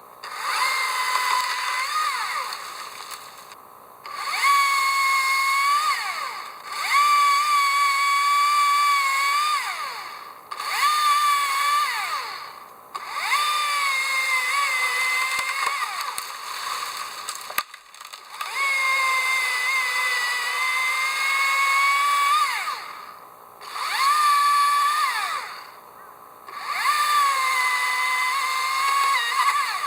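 Chainsaw run in about eight bursts with short pauses between them. Each burst revs up to a high whine, sags slightly as if under load while cutting wood, then winds down.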